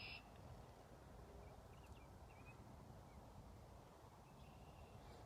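Near silence, with a few faint bird chirps about two seconds in.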